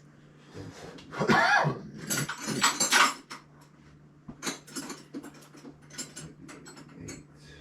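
Metal tools and parts clinking and clattering in a car's engine bay. There is a short wavering squeal about a second in, the loudest clatter comes at two to three seconds, and lighter clicks and ticks follow.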